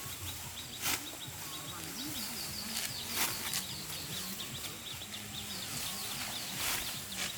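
Outdoor rural background with small birds chirping rapidly and steadily, three sharp knocks and a low steady hum underneath.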